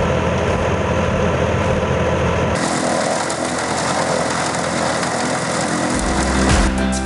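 Tractor engine running a tractor-driven chaff cutter, a loud, steady machine noise; it changes abruptly about two and a half seconds in and again near the end.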